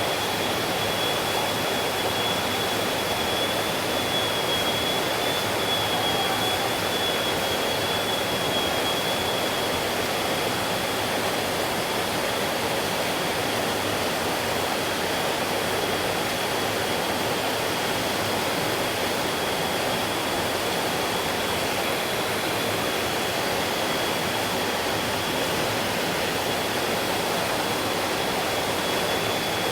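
A stream flowing with a steady, unbroken rush of water. A thin, high, steady tone sits above it throughout.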